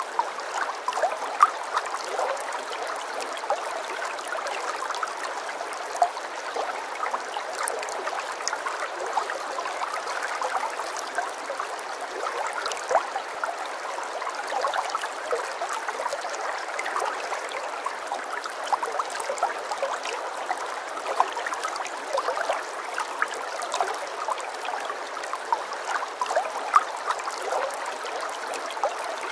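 Running water flowing steadily in a small stream, with many little splashes and drips scattered through it.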